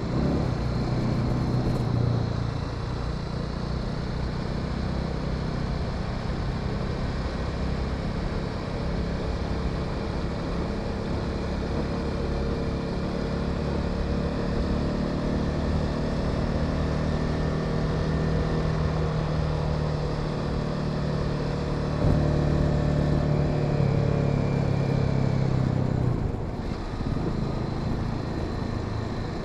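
Honda Sahara 300 motorcycle's single-cylinder engine running under way, mixed with wind and road noise. The engine note holds fairly steady, gets louder about two-thirds of the way through as the throttle opens, then eases off abruptly a few seconds later.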